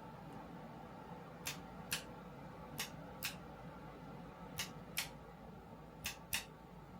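Eight sharp clicks in four pairs, the two clicks of each pair about half a second apart and a new pair every second and a half or so, over a faint steady hum.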